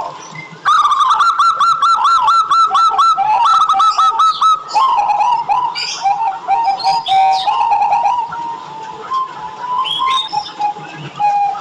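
Zebra dove (perkutut) singing: a fast run of repeated arched notes, followed by a lower, wavering run of cooing notes. Fainter, higher chirps from other birds sound over it.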